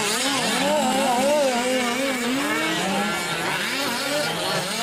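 Several 1/5-scale gas RC trucks' small two-stroke engines racing together, their pitches rising and falling over one another as they rev up and ease off through the track.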